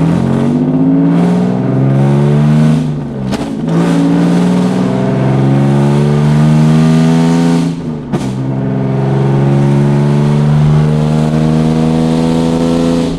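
The 3.8-litre V6 of a Hyundai Genesis Coupe, fitted with ported and polished intake manifolds and throttle body, accelerating through the gears, heard from inside the cabin. The engine note climbs in pitch, dips briefly at two gear changes, about three seconds in and about eight seconds in, then climbs more slowly in each higher gear.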